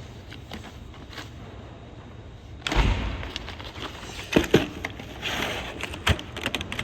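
Die-cast toy cars rolling down a plastic Hot Wheels track, with a rattle. About two and a half seconds in there is a sudden thump, followed by several sharp knocks as the cars strike the track and each other.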